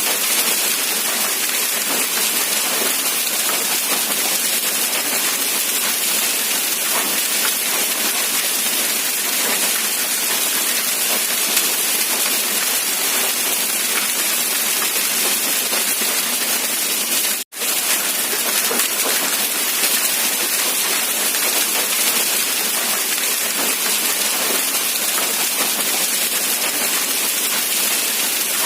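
Rain falling steadily, an even hiss of dense drops with little low rumble. The sound drops out for an instant about seventeen seconds in, then carries on unchanged.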